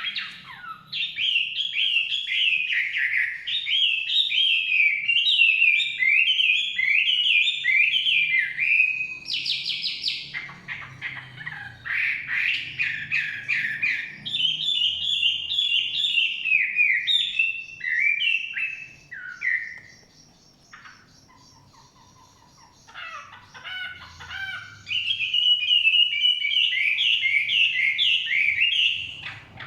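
Hwamei (Chinese melodious laughingthrush) singing long runs of rapid, varied whistled phrases, breaking off for a few seconds about two-thirds of the way through before starting again.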